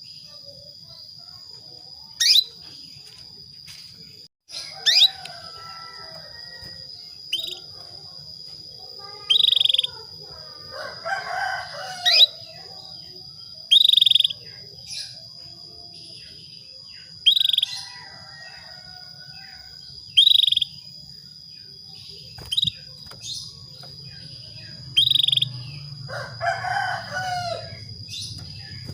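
Female canary in breeding condition calling to males: short high chirps every two to three seconds, some sweeping sharply upward. Twice a longer, lower call comes in, and a steady high tone runs underneath.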